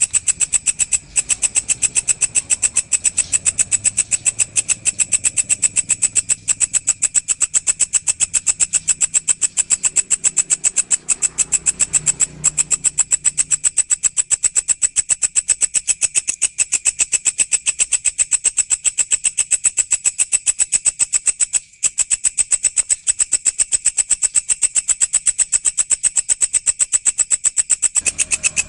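Walang, an Indonesian katydid-type insect, calling with a continuous rapid, even, high-pitched pulsing trill, broken once for a moment about 22 seconds in.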